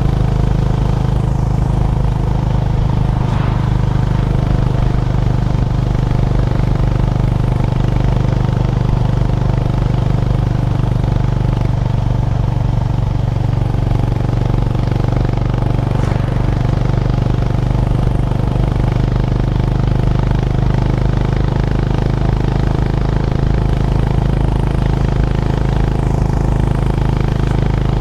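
Honda GB350's air-cooled single-cylinder engine running at a steady, even pitch while the motorcycle is ridden.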